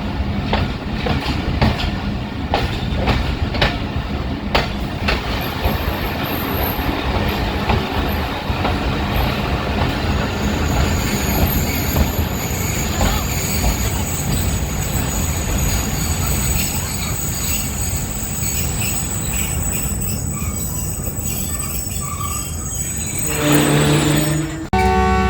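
Passenger train wheels on the track, clicking sharply over rail joints at first, then a long high-pitched wheel and brake squeal as the train slows. Near the end a loud steady pitched tone suddenly takes over.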